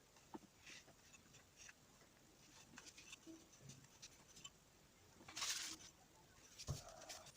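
Faint handling noises of starter-motor parts being worked on: scattered light clicks and scratches, one longer scrape about five seconds in, and a short knock near the end.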